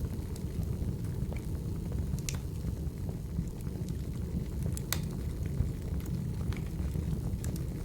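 Wood fire burning: a steady low rumble with scattered sharp crackles and pops, the loudest about two seconds in and again near five seconds.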